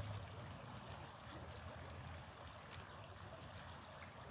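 Small brook babbling: a steady, faint trickle of running water.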